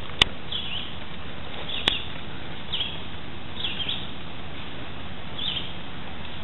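A bird chirping, short high downward-sliding calls about once a second, over a steady background hiss. Two sharp clicks, one near the start and one about two seconds in, are the loudest sounds.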